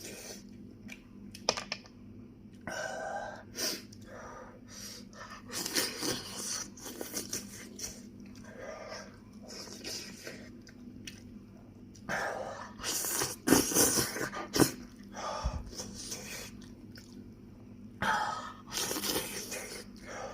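A person chewing and biting into crispy fried meat close to the microphone, with irregular crunches and wet mouth sounds. The loudest crunches come about two-thirds of the way through.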